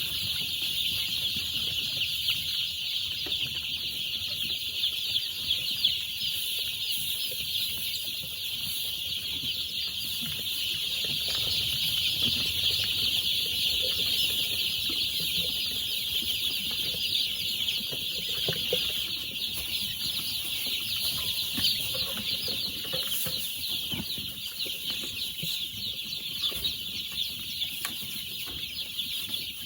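A large flock of young chickens peeping and chirping together in a dense, continuous chorus.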